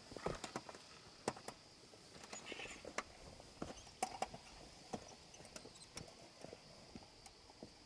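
Irregular light clicks and taps, a few a second, with the loudest ones about a second in, at three seconds and at four seconds, over a faint steady high-pitched hum.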